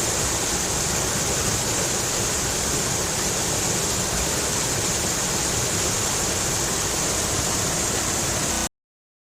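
Stream of water rushing and splashing over rocks: a steady, even rush of water that cuts off suddenly near the end.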